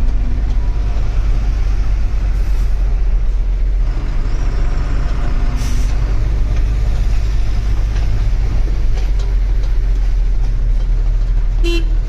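Heavy truck on the move: a steady low engine and road rumble, with a short hiss about halfway through and a brief click near the end.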